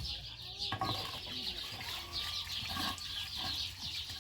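Birds calling, likely farm fowl, over a steady high-pitched chirring and a low hum.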